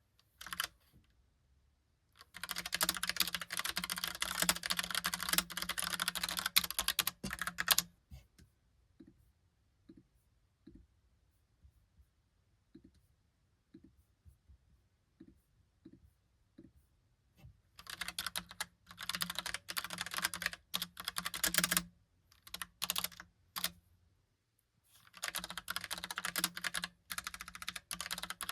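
Typing on a Logitech POP Keys mechanical keyboard with round, typewriter-style keycaps: fast runs of key clicks lasting a few seconds each, broken by pauses. A long pause in the middle holds only a few faint scattered ticks.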